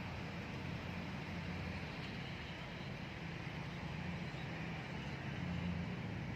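Steady low engine rumble over a constant hiss.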